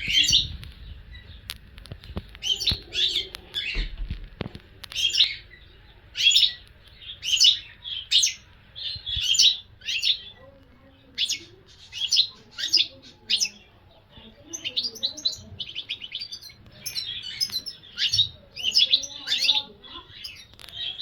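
European goldfinch singing: bright, twittering phrases about once a second, with a quicker run of rapid notes around the middle.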